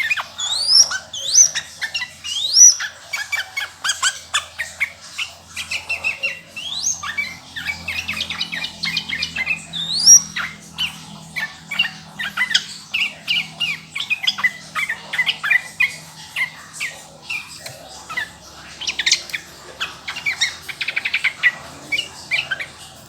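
Sooty-headed bulbul (trucukan) singing a continuous run of quick chirps and rising whistled notes, denser and faster in the second half.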